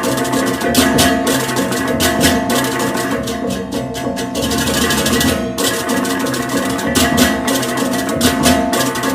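Balinese gamelan music: ringing metal gong and keyed tones under fast, dense cymbal-like strikes and drumming.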